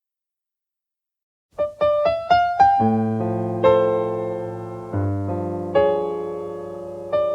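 Silence for about a second and a half, then solo piano music begins. A quick rising run of five notes is followed by held chords struck roughly once a second.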